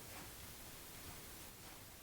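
Quiet room tone with a faint steady hiss; no distinct sound events.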